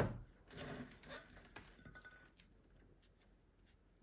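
Faint handling noises as reusable modeling clay is pulled away from a mold: a sharp click at the start, then a few soft scrapes in the first second or so and scattered light ticks.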